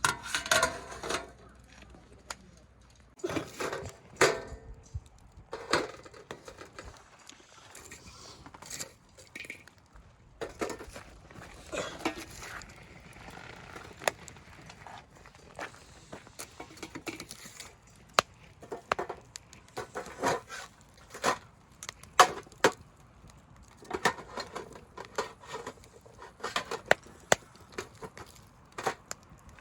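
Scattered knocks, clinks and scrapes of cookware and utensils being handled while cooking at a campsite, with sharp clicks coming thick and fast in the second half.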